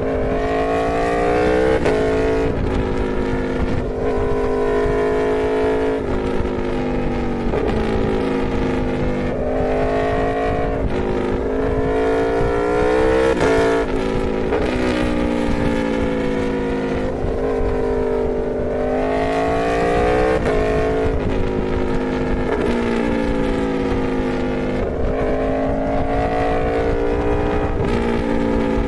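Aprilia Tuono V4 motorcycle's 65-degree V4 engine under way, its pitch climbing under throttle and then dropping sharply at each gear change, over and over.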